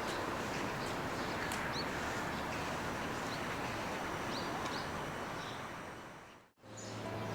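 Outdoor ambience: a steady wash of noise with a few short, high bird chirps. It fades out about six and a half seconds in, and music begins near the end.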